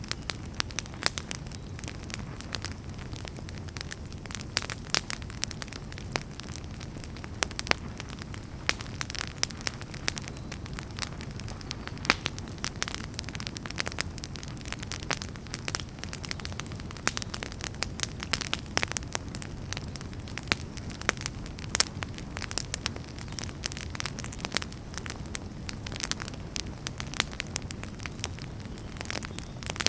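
Wood fire burning: firewood crackling, with frequent irregular sharp snaps and pops over a steady low rumble of flame.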